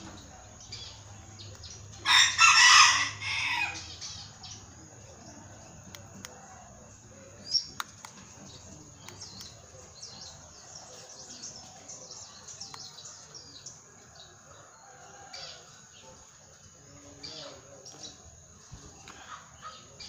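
A loud bird call about two seconds in, lasting over a second, with a short click near eight seconds and faint chirps of small birds scattered throughout.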